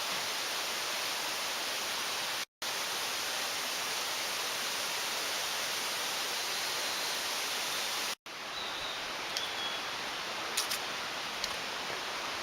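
Mountain stream water rushing over rocks as a steady, even hiss. It cuts out for a moment twice, about two and a half and eight seconds in. After the second break a few faint clicks sound over it.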